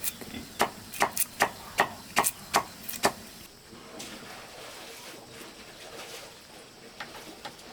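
A quick run of sharp chopping strikes, about a dozen in the first three seconds, then only a few faint ticks.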